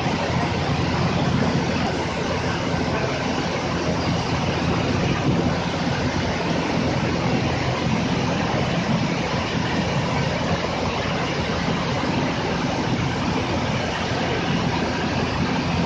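Automatic car wash machine running steadily: a continuous motor and pump hum under an even rushing noise.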